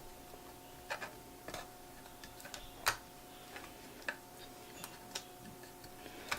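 Irregular light clicks and taps from small parts and a paper tab being handled inside an opened laptop, the loudest about three seconds in, over a faint steady tone.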